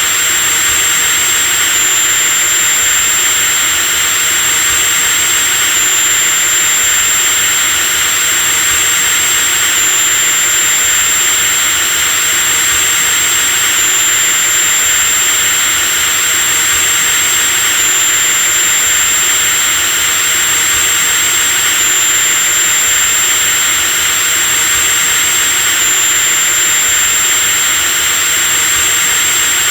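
Electric drill running continuously with a steady high-pitched whine over a loud motor hiss.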